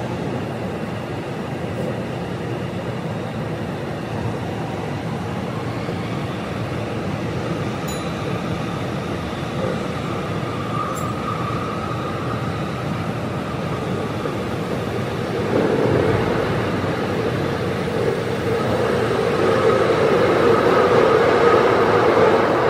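Tsukuba Express commuter train running through an underground tunnel, heard from inside the driver's cab: steady rumble of the wheels and running gear. A steadier hum comes in about two thirds of the way through, and the sound grows louder. The footage is sped up to double speed.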